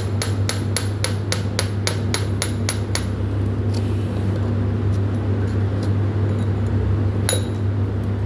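A hammer striking metal: a quick run of ringing blows, about four a second for three seconds, then one more blow near the end, over a steady low hum.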